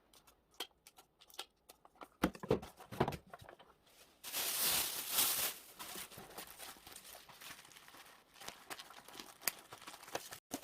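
Parcel packing noise: plastic packaging crinkling and rustling with a few sharp clicks. About four seconds in there is a louder rasping stretch lasting about a second and a half, then quieter rustling.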